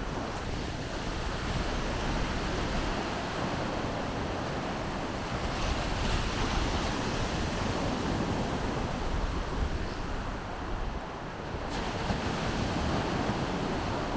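Baltic Sea surf washing onto the beach, a continuous rushing wash, with wind rumbling on the microphone.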